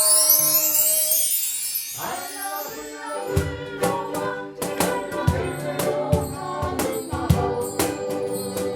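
Live ukulele ensemble music. It opens with a rising shimmer like a chime run, then strummed ukuleles come in about three seconds in, in a steady rhythm under a held melody.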